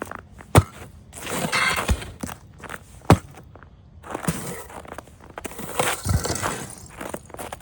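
Footsteps crunching through icy, crusted snow, with two sharp cracks of breaking ice, about half a second in and about three seconds in.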